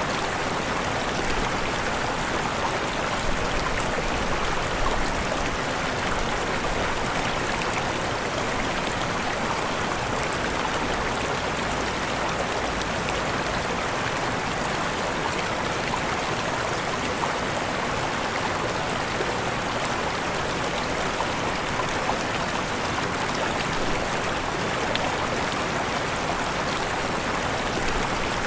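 Steady rushing of a waterfall, a continuous even wash of falling water with no breaks.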